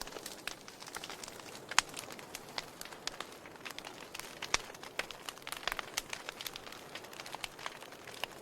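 Wood fire in a fireplace crackling, with irregular sharp pops over a soft steady hiss; two louder pops come about two and four and a half seconds in.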